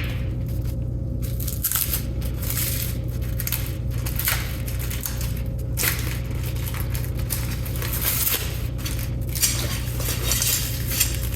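Irregular rustling, crinkling and light clinking as packaging and small metal parts are handled and unpacked, over a steady low electrical hum.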